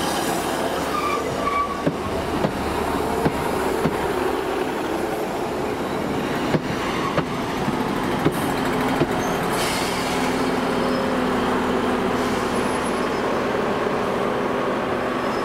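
A train running along the line: a steady rumble of wheels on rail with irregular sharp clicks, and a faint held squeal in the middle.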